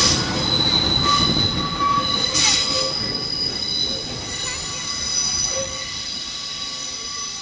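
Passing diesel multiple unit's wheels squealing on the rails, several high steady squeal tones over the low rumble of the train, all fading as the train pulls away.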